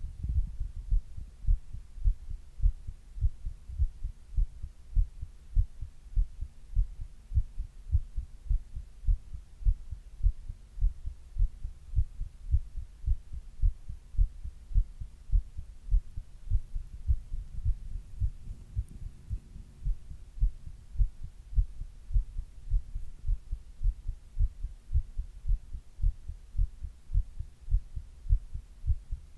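A person's own heartbeat picked up close against the chest: a steady, regular rhythm of low thumps (lub-dub heart sounds) with a faint hum between beats.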